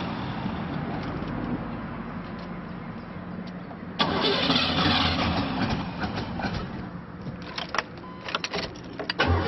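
A car engine being cranked over by its starter and struggling to start. The cranking gets louder and harsher about four seconds in.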